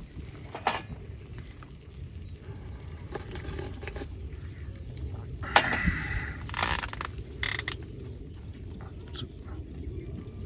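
A few sharp clinks and knocks of objects being handled, the loudest about five and a half seconds in, over a low steady rumble.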